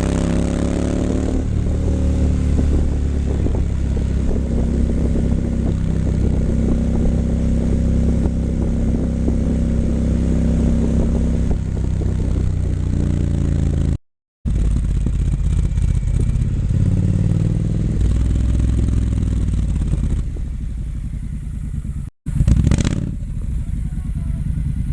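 Triumph Scrambler 900's parallel-twin engine running through an H-pipe with a Vance & Hines exhaust while being ridden. The pitch falls in the first second, then holds steady for about ten seconds and eases off. After a brief cut the revs rise and fall again, and the engine is quieter near the end, with a short loud burst about three seconds before the end.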